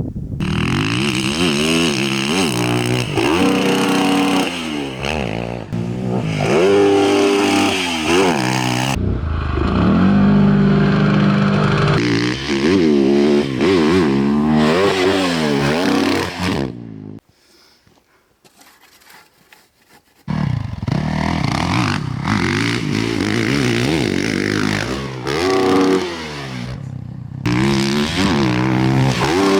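Motocross bike engine revving hard and easing off again and again, its pitch climbing and falling as the rider goes through the gears and over jumps. The engine sound drops out for about three seconds in the middle, then comes back.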